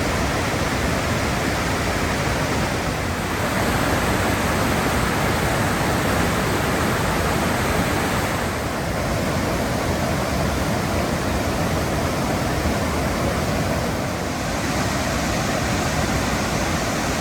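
Waterfall of spring snowmelt rushing over rock, a loud, steady roar of falling water whose tone shifts slightly three times.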